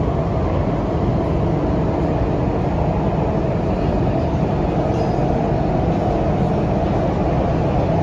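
Cabin running noise of a CRRC Nanjing Puzhen Type-A metro train under way: a steady, loud rumble of wheels on rail and running gear, heaviest in the low range.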